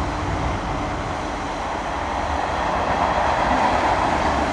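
Train running on the line through the station: a steady rumble and rail noise that grows louder in the second half.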